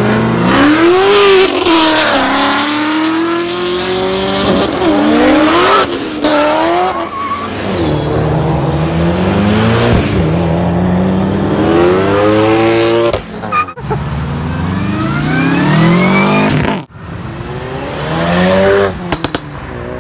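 Several cars accelerating hard one after another, engines revving up in repeated rising sweeps with pitch drops at each gear change. The sound breaks off abruptly twice in the second half.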